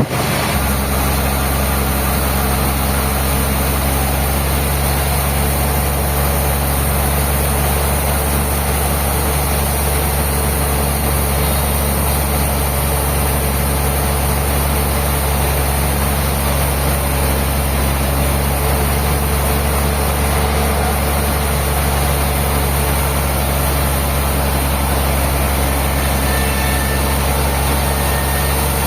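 Sawmill's engine running steadily at one even speed, a low hum that holds its pitch without rising or falling.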